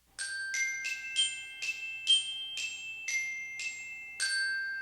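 A short intro jingle of about ten struck, bell-like glockenspiel notes forming a simple melody, the last note ringing on and fading away.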